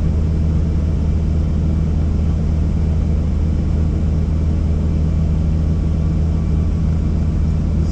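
Helicopter running steadily: a constant low drone with an even hum.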